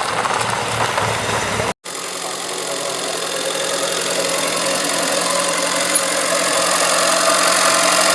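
Car engine running close by, steady and slowly growing louder. The sound drops out for an instant about two seconds in, then picks up again.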